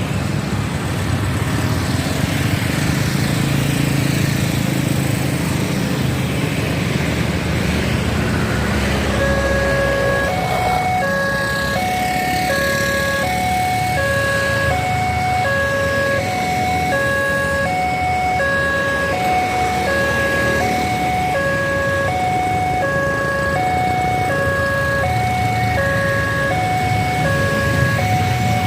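Steady road-traffic noise; about nine seconds in, a railway level-crossing warning alarm starts up, an electronic two-tone signal alternating about twice a second, sounding to warn of an approaching train as the barriers close.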